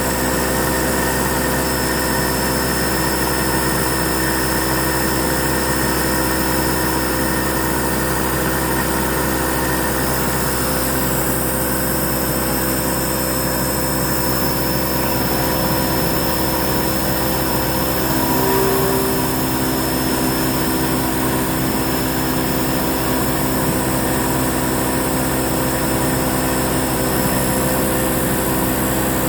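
Hurco MB-1 CNC milling machine running while milling letters: a steady hum of spindle motor and drives made of several held tones, with a brief change in pitch about two-thirds of the way through.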